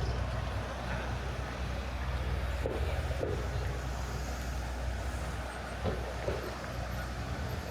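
City street ambience: a steady low rumble of traffic on a busy avenue.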